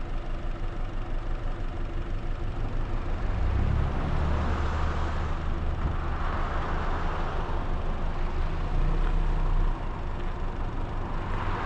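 A car driving, its engine and road noise steady, getting louder about three and a half seconds in, with a few swells of hiss.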